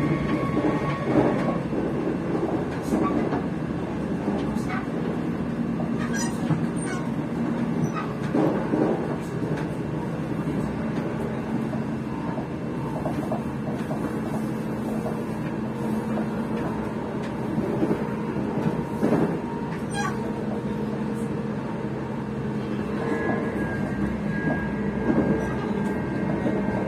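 ScotRail electric train running, heard from inside the passenger saloon: a steady hum and rumble from the traction motors and wheels on the rails, with scattered clicks. Near the end a higher motor whine joins in and slowly falls in pitch.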